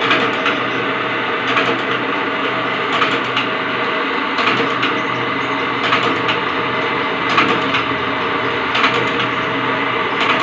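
Wire-cutting machine running with a steady hum, with a sharp clack about every one and a half seconds as it cuts the wire.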